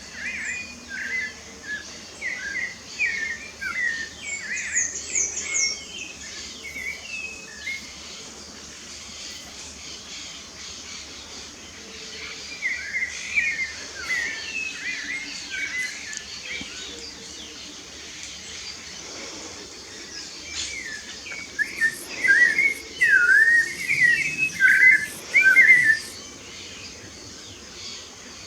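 A songbird singing in three bouts of quick, varied whistled phrases with pauses between them, the last bout the loudest, over a steady background hiss. A thin, higher-pitched series of notes from another bird comes about five seconds in.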